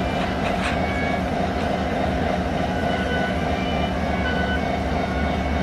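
Passenger train car rolling along the track at speed: a steady running rumble of wheels on rail, with brief faint high tones coming and going.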